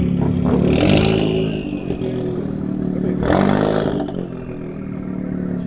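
Car engine idling steadily, with two louder bursts, about a second in and again about three seconds in.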